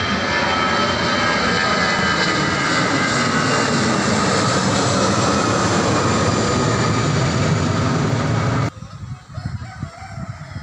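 Large airplane flying low overhead, its engines a loud roar with whining tones slowly dropping in pitch, cutting off abruptly near the end. In the quieter background that follows, a rooster crows.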